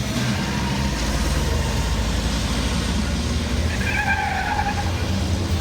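Racing trucks' diesel engines running at speed, a steady low drone. About four seconds in, a brief high-pitched tone rises above it for about a second.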